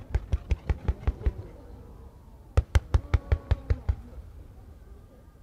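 Fireworks starmine firing in rapid sequence: two quick volleys of sharp reports, about six a second, the second volley coming about two and a half seconds in.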